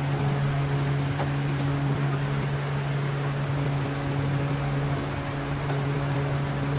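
A machine running steadily: a constant low hum under an even rushing noise, with no change in speed.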